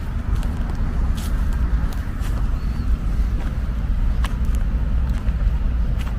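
Wind buffeting the microphone outdoors: a steady, loud low rumble with a few faint clicks.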